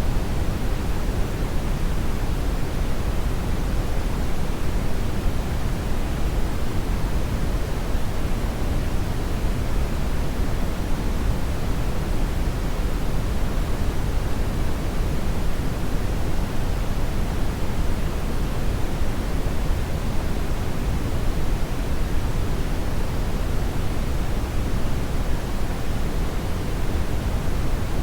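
Hair dryer running steadily: an even rush of blown air, heaviest in the low end, with no change in speed or pitch.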